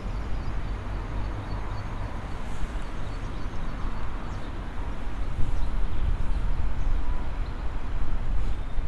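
Outdoor ambience: a steady low rumble under a faint hiss, louder from about five seconds in.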